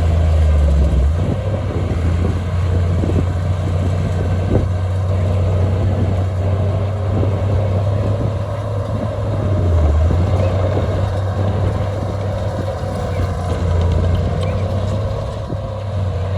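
Heavy diesel earthmoving machine engine running steadily with a deep rumble, with occasional short clanks.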